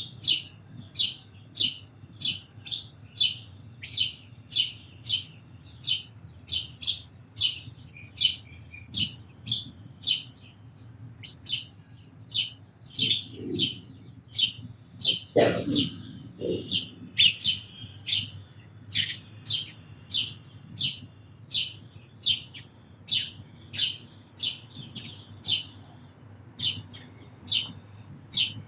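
House sparrow chirping over and over, short sharp chirps about two a second, with a brief low thud and a click a little past halfway.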